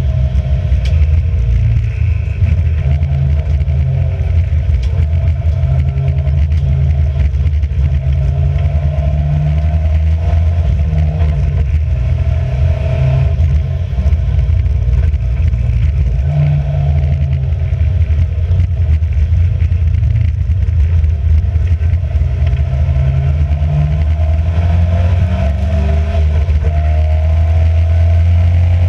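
Race car engine running hard at racing speed, the revs rising and falling as it accelerates, brakes and shifts gear, with a brief drop in level about halfway through.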